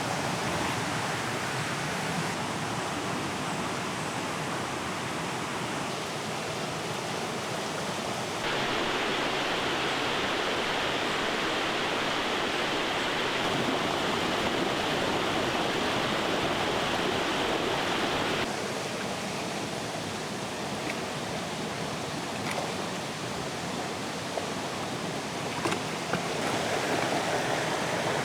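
Steady rush of a mountain stream flowing over rocks. The water is louder and brighter in the middle third, with abrupt steps up and back down.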